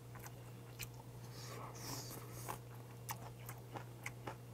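A person chewing a mouthful of oyster rice: faint, scattered mouth clicks and smacks over a steady low hum.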